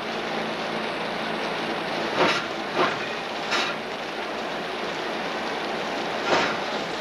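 Railway train rolling along the track: a steady rolling noise with a few sharp knocks from the wheels, a couple of seconds apart and again near the end.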